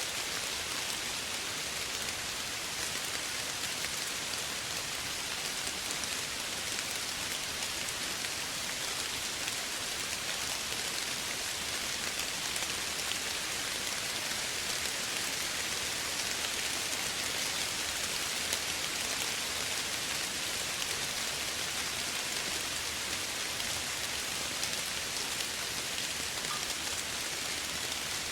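Steady soft rainfall, an even hiss of drops hitting a surface with faint individual drop ticks.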